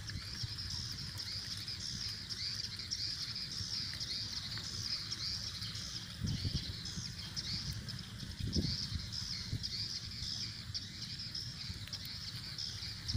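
Swiftlets twittering: a dense, unbroken stream of rapid high-pitched chirps, the swiftlet call used to lure the birds into a swiftlet house. A low rumble runs underneath, with a couple of soft thumps.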